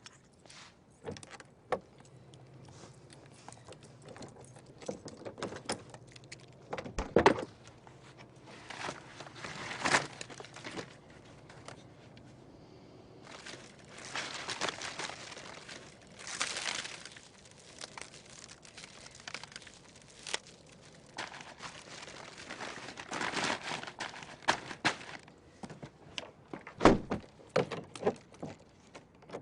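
Crinkling and rustling handling sounds with scattered knocks and clicks, the loudest knocks about a quarter and a third of the way in and near the end.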